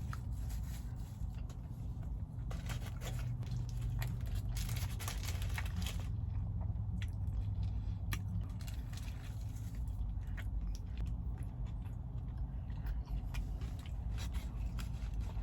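Close-up mouth sounds of someone chewing and biting into a fast-food burger: irregular soft crunches and wet clicks over a steady low hum.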